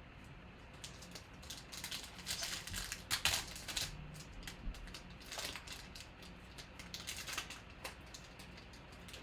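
2020 Panini Prizm football cards and packs being handled at close range: irregular light clicks and crinkly rustles as cards are flipped and wrappers handled, thickest about two to three and a half seconds in.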